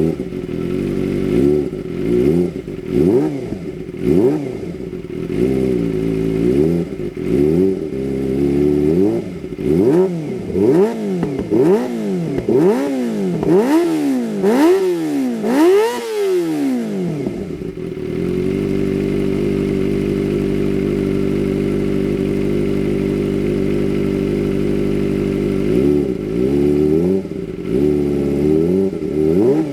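Kawasaki ZX-25R's inline-four engine through a Shijiro aftermarket racing exhaust, free-revving in repeated quick throttle blips that reach higher revs toward the middle. It then settles to a steady idle for about eight seconds before a few more blips near the end.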